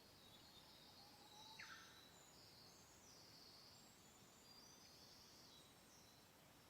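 Faint birdsong: several birds singing high, twittering phrases, with one short falling note about a second and a half in, over a soft, even hiss of gentle wind.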